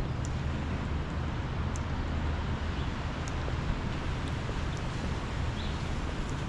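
Steady city street background noise: a low, even hum of distant traffic under a broad hiss, with a few faint clicks.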